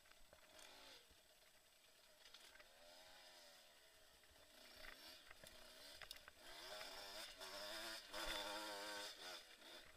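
KTM enduro motorcycle engine, faint, revving up and down as the throttle is worked over rough trail. There is one swell about three seconds in, then it grows louder with quick rises and falls in pitch through the second half.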